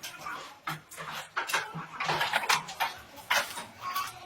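Irregular light clatter of small hard objects being handled: a string of sharp clicks and taps at an uneven pace.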